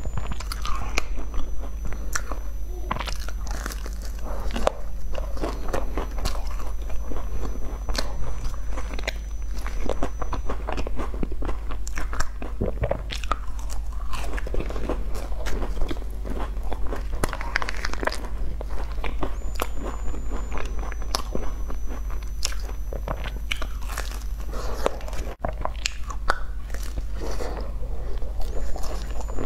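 Close-miked eating of sesame-topped pastries: bites into the crust and chewing, with many irregular crunchy crackles and mouth sounds, over a steady low hum.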